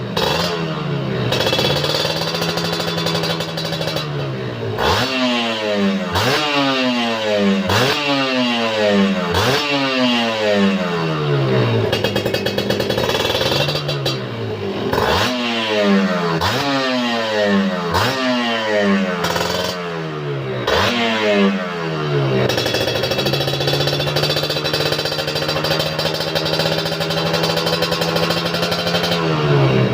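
Two-stroke motorcycle engine running through an aftermarket exhaust. It idles, then is blipped again and again, each rev rising and falling quickly, and settles back to a steady idle for the last several seconds.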